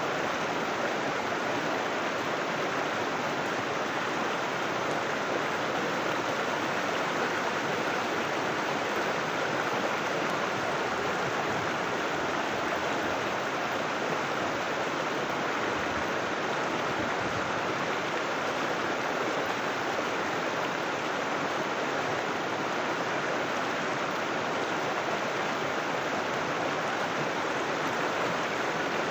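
River water flowing, a steady unbroken rush of running water.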